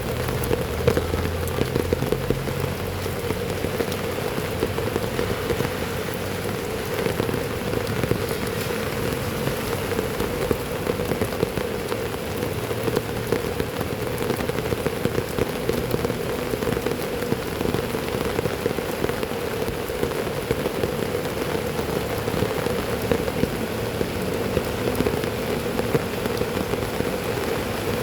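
Heavy rain falling steadily, with a dense spray of drops striking a hard surface.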